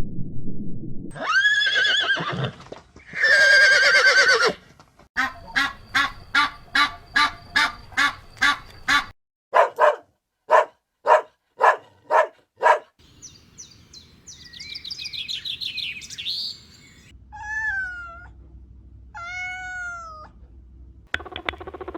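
A run of different animal calls cut one after another. First come two drawn-out pitched calls, then a quick series of short evenly spaced calls, then a few loud short calls with silences between them. High chirping follows, and then two short calls that swoop down and back up in pitch.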